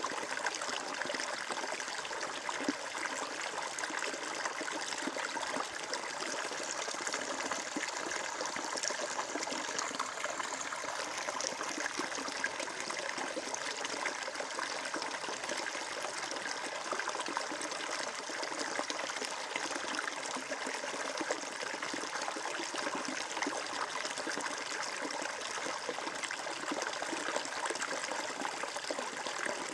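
Flowing water running steadily, an even, unbroken rush and trickle that does not rise or fall.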